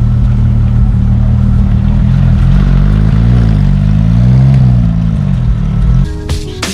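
A car engine running loud and close, a deep steady exhaust drone whose pitch wavers up and down for a couple of seconds in the middle. It cuts off abruptly near the end.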